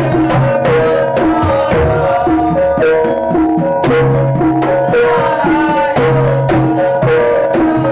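Jaranan music from a gamelan-style ensemble: hand-drum strokes in a quick, steady rhythm over sustained, ringing tuned gong and metallophone notes, with a low gong tone recurring every couple of seconds.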